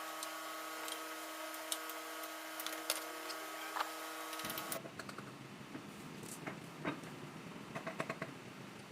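Faint scattered clicks and taps of hand tools at work. A steady electrical hum cuts off abruptly about four and a half seconds in, after which the clicks and knocks come more often.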